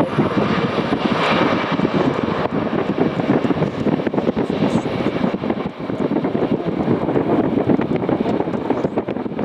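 Airbus A320neo airliner's jet engines, a loud steady rush of noise.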